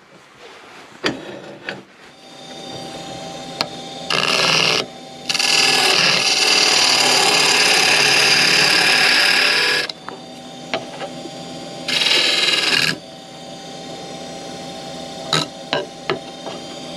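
Wood lathe running steadily while a turning tool cuts the spinning wood in three spells: a short one about four seconds in, a long one of about four and a half seconds, and another short one about twelve seconds in. A few sharp clicks come between them.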